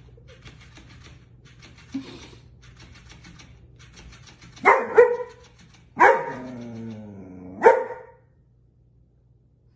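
A dog barking: two quick barks, then a longer drawn-out call that falls in pitch, then one more bark. The sound then cuts off abruptly.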